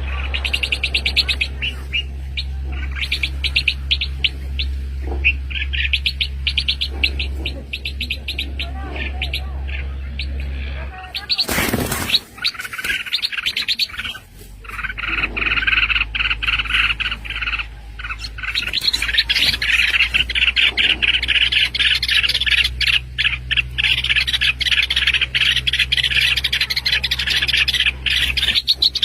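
Small birds chirping rapidly and incessantly in dense runs of high calls, over a steady low hum. A brief loud noise breaks in about twelve seconds in, after which the chirping grows denser and louder.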